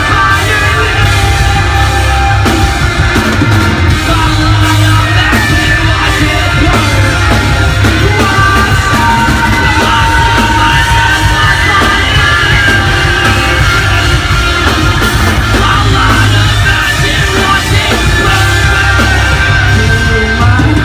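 Loud live rock band playing, with distorted guitars, heavy bass and drums and a singer yelling the vocals.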